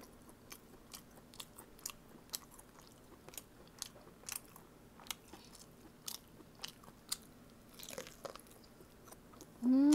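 Close, wet chewing and biting as a person gnaws meat off a boiled pork bone, with sharp mouth clicks and smacks about once or twice a second. Just before the end comes a short hummed "mmm".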